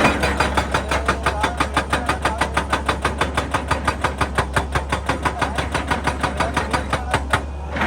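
Excavator-mounted hydraulic breaker hammering rock in a fast, even run of about six or seven blows a second, over the steady hum of the engine. The hammering stops about half a second before the end.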